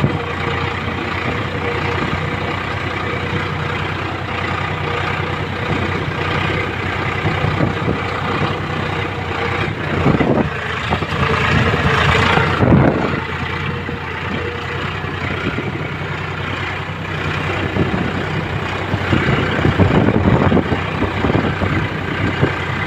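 Eicher tractor's diesel engine running steadily, with a few louder surges around the middle and again near the end.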